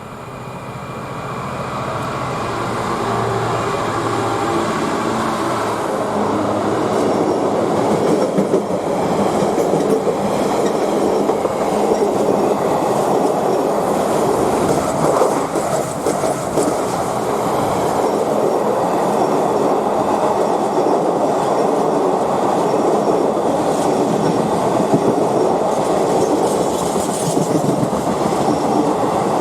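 Train passing close by, growing louder over the first few seconds, then a long steady run of wheel-on-rail noise as the carriages go past.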